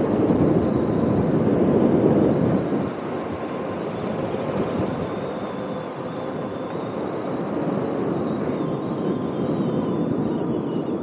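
Wind buffeting the microphone during a ride, a rough rushing noise that is loudest in the first three seconds and then eases, with a faint steady whine underneath.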